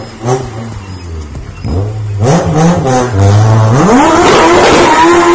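Honda Civic's D15 four-cylinder, fitted with a double-VTEC RS head and a chip-tuned ECU, revving: a few short blips, then revved up hard about four seconds in and held high.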